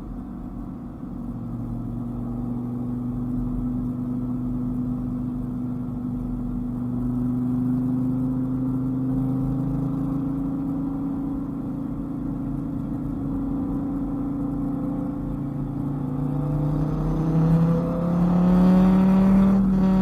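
Dodge Viper GTS's V10 engine cruising at steady revs, then accelerating near the end, its pitch rising as the revs climb.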